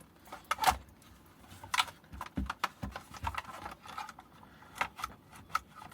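Plastic battery case and cell pack being pushed and shifted by hand: scattered clicks, knocks and a few dull thuds as the pack, stuck in its case, is tried for movement.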